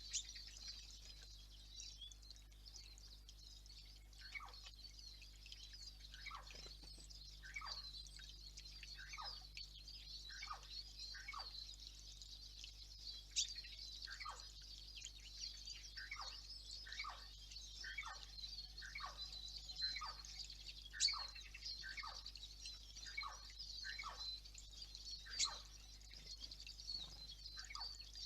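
Wild birds calling in woodland: constant high-pitched twittering, joined from about four seconds in by a long series of short notes that fall in pitch, roughly one a second. A few sharp clicks or taps break through, the loudest near the end, over a faint steady low hum.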